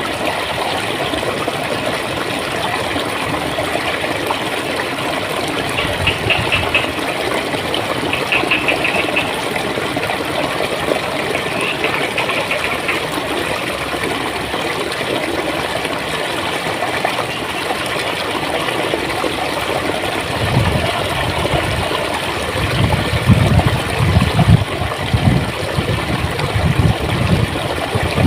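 Clear stream water flowing and gurgling with a steady rush. In the last third, uneven low rumbling thuds break through the water sound and are the loudest part.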